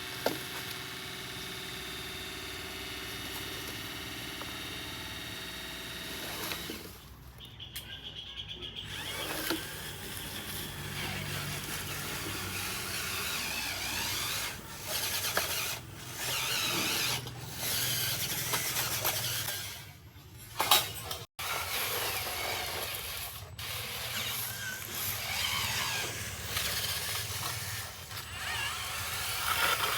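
Small electric motors of radio-controlled construction models whining. A steady multi-tone whine holds for about the first six seconds, then changes to a noisier, varying motor sound broken by abrupt cut-offs.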